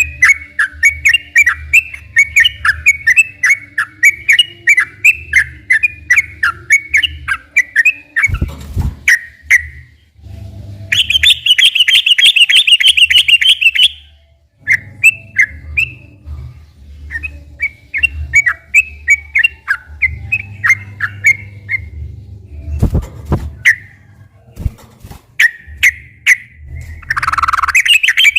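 Yellow-vented bulbul (trucukan) singing a long run of quick chirping notes, with a louder fast trill about eleven seconds in and again near the end. A low hum runs underneath, with two short low thumps.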